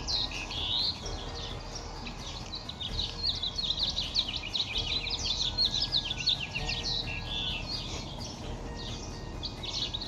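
Many small birds chirping busily, a dense and unbroken run of quick, high, falling chirps.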